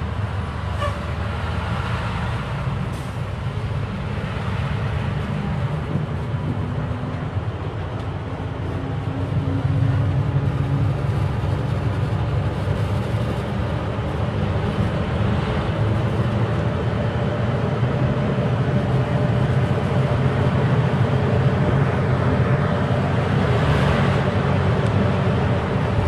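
Truck engine running with road noise while the truck drives along, getting louder about ten seconds in.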